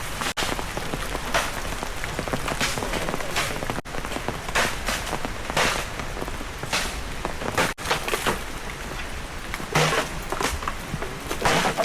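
Heavy rain pouring down: a dense, steady hiss that swells louder in irregular surges about once a second, with brief cut-outs roughly every four seconds.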